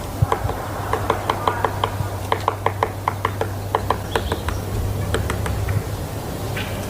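Woodpecker pecking at wood: a series of sharp knocks, several a second in uneven runs, stopping shortly before the end, over a steady low hum.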